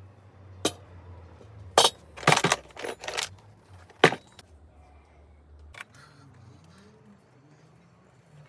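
Hardwood can topper and drink can being handled: a few sharp clicks and knocks over the first five seconds or so. A low hum underneath cuts off suddenly about six seconds in.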